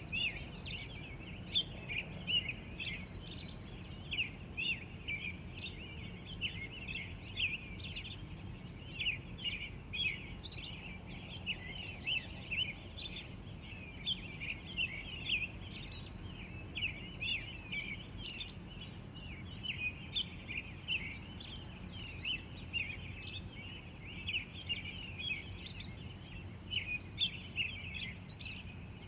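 Early-morning dawn chorus of many wild birds chirping densely and without pause, over a steady high-pitched drone and a low background rumble.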